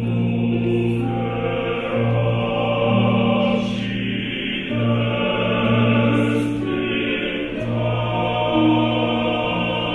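Music: a choir singing slow, sustained chords over a low held bass note.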